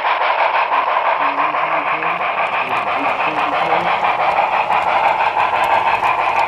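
Steady running noise of a passenger train, a dense hiss and rumble with fast, regular clicking. Faint voices sit underneath.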